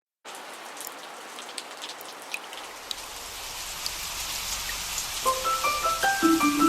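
Steady rain with scattered individual drops ticking, starting suddenly just after the start. From about five seconds in, a light melody of short pitched notes comes in over the rain.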